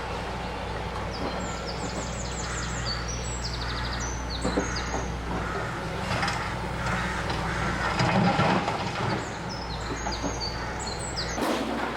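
Demolition machinery running steadily, with occasional knocks and crunching that are loudest about eight seconds in. A bird sings two runs of quick descending chirps, one near the start and one near the end.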